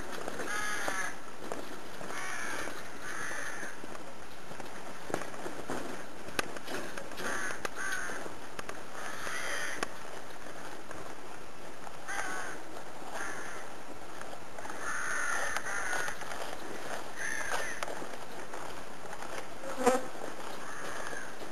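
Birds calling over and over, short calls every second or two in small groups, with a single sharp knock near the end.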